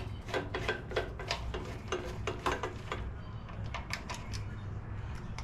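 Light metallic clicks and taps of hand tools working on a small engine's carburetor, irregular at about two or three a second.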